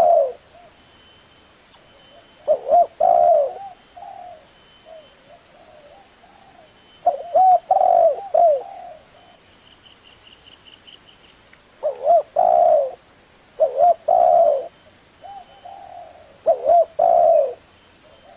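Spotted dove cooing: about six low, rolling coo phrases, repeated every few seconds with short gaps between them.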